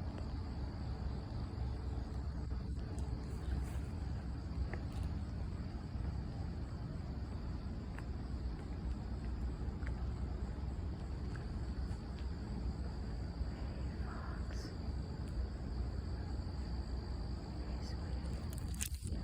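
Crickets chirping steadily as one constant high tone, over a steady low rumble.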